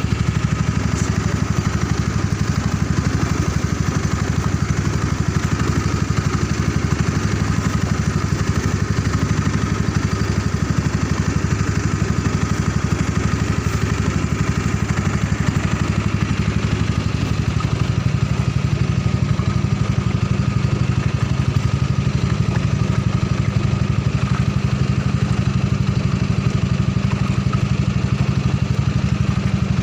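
Honda 6.5 hp single-cylinder ketinting longtail boat engine running steadily at constant speed.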